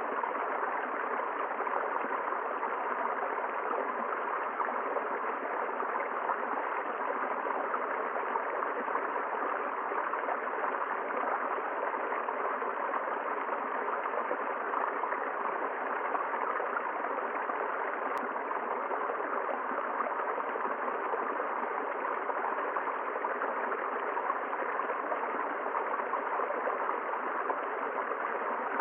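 A river flowing in a steady, unbroken rush of water.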